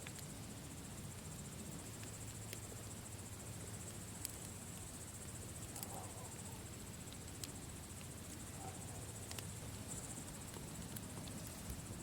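Campfire crackling, with a sharp pop every second or two over a low steady rumble, and a continuous high-pitched trill running behind it.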